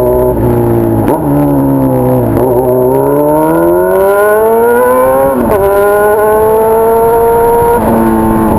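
Honda Hornet 600's inline-four engine through a 3-inch aftermarket exhaust, under way and changing gear. The engine note drops in short steps, then climbs steadily for about three seconds before dropping sharply at an upshift, and runs fairly steady after that.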